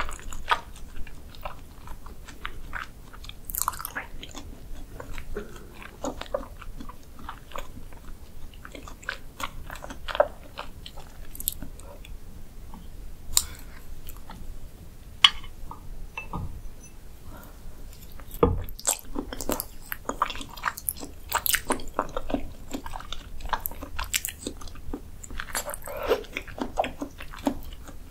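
Close-miked chewing of soft beef spinal cord: irregular wet mouth smacks and clicks, with a few sharper clicks and one low thump past the middle.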